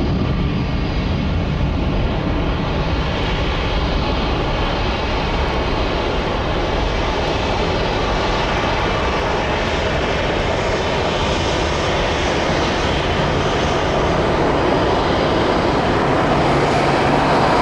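Jet airliner engines running with a steady rush and a faint whine, growing louder near the end as the aircraft comes closer.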